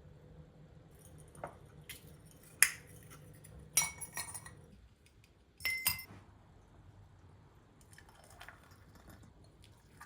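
Kitchenware being handled: about five sharp clinks of glass or ceramic and metal, a couple of them ringing briefly, over a faint low hum that stops about halfway through.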